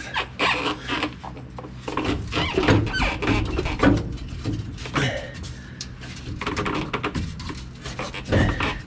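Irregular metal knocks, clanks and scrapes as a truck's exhaust pipes are worked loose from their hangers.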